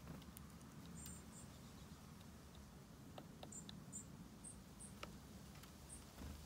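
Faint, short, very high bird chirps here and there, with a few soft ticks between them, over a quiet garden background.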